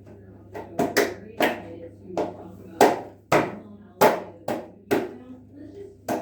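About ten sharp hits at uneven intervals, each one dying away quickly, like hands clapping or knocking.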